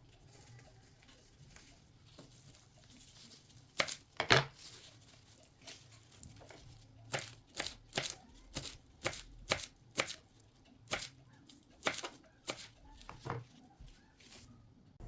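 Knife chopping on a cutting board: two sharp strokes about four seconds in, then a steady run of strokes about two a second.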